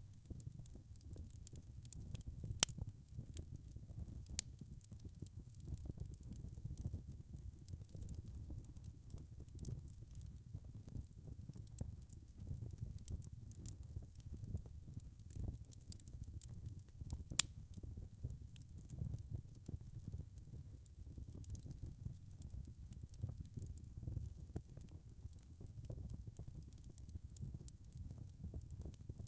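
Wood fire burning with a steady low rumble and scattered small crackles, with two sharper pops, one a few seconds in and one just past halfway.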